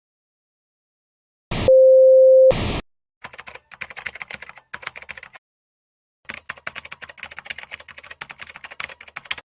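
A loud, steady electronic tone lasts about a second, then computer keyboard typing comes in two runs of rapid clicks, with a short pause between them.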